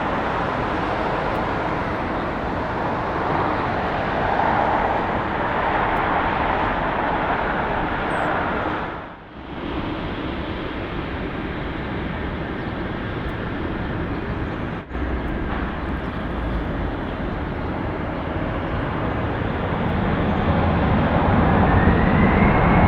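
Jet aircraft noise with short breaks about 9 and 15 seconds in. Afterwards a Boeing 747-400 freighter on its landing approach grows steadily louder, and a rising engine whine comes in near the end.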